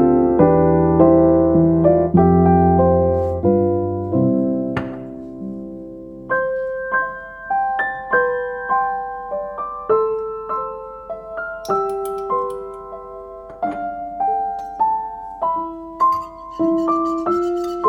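Background solo piano music: low chords for the first few seconds, then a slow, lighter melody in a higher register.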